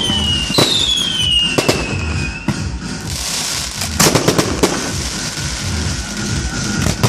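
Fireworks going off: sharp bangs of bursting shells, with a whistle that falls in pitch over about two seconds starting about half a second in, crackling around three seconds in, and a quick cluster of bangs about four seconds in.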